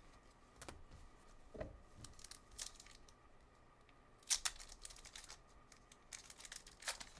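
Trading card pack wrappers being torn open and crinkled, with cards handled: short scattered rustles, the sharpest rip about four seconds in and a quicker run of rustling near the end.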